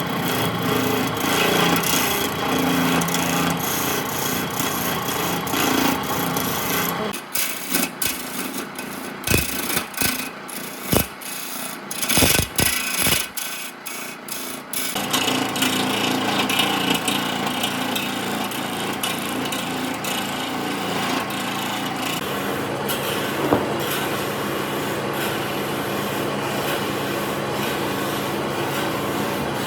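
A power tool working wood, a steady rasping run. About seven seconds in it stops, and a handful of separate knocks and taps follow for several seconds. The tool then starts again and runs steadily.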